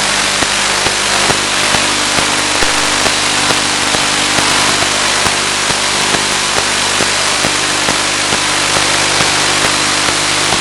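Steady, loud static hiss on the audio of an analog 1.3 GHz FPV video link, with a low steady hum and scattered crackles.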